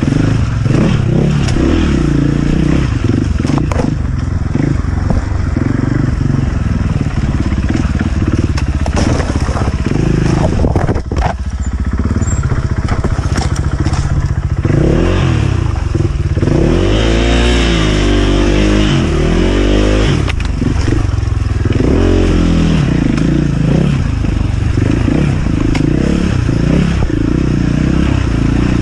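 Enduro dirt bike engine running hard, its revs rising and falling repeatedly around the middle, with clattering knocks throughout.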